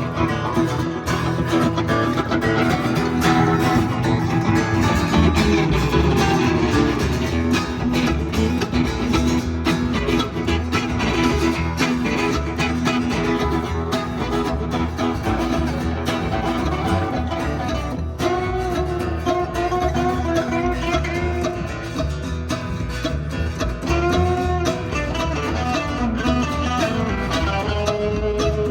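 Live band playing an instrumental break with no vocals: a guitar lead line over a steady beat.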